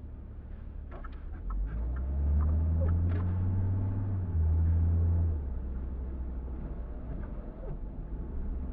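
Car engine and road noise while driving, a low steady rumble that grows louder for about three seconds, from about two seconds in, then eases back.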